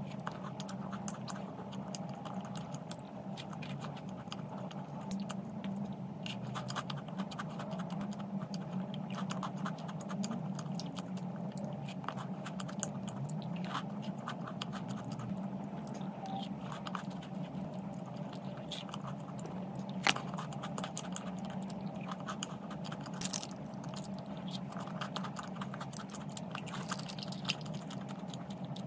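A person chewing and crunching food close to the microphone, with a constant patter of small clicks and one sharper click about 20 seconds in, over a steady low hum.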